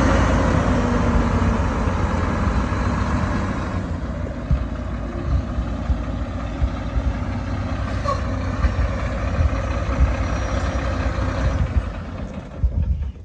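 Diesel engine of a 2014 Mack CXU Pinnacle day cab semi truck running, fuller and louder for the first four seconds or so, then settling quieter and steadier at idle.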